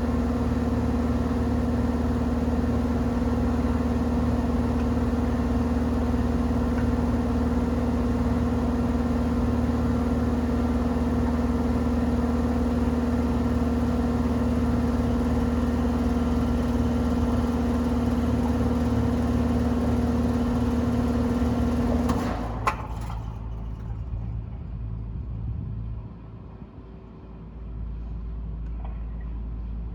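2024 Carrier central air conditioner's outdoor condensing unit running steadily, its compressor and fan humming with two steady tones. About 22 seconds in it shuts off with a sharp click, and the fan's lower whir fades out over the next few seconds as it coasts to a stop.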